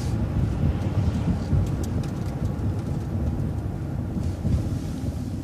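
City transit bus running, heard from inside: a steady low engine and road rumble, with a few faint ticks and rattles about two seconds in.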